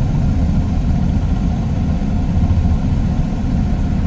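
Steady low engine rumble at idle, unchanging throughout.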